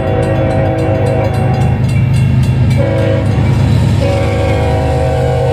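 Union Pacific freight locomotive's air horn sounding its grade-crossing warning: a long blast that breaks off about two seconds in, a short blast around three seconds, then another long blast from about four seconds on. The deep, steady rumble of the passing train runs beneath it.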